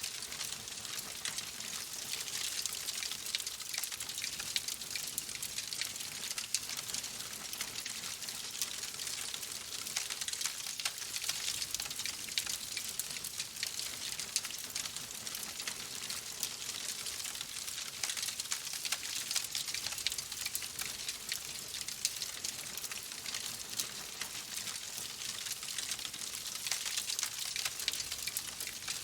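Wood fire crackling in a fireplace: a steady hiss dotted with many small, quick pops and snaps.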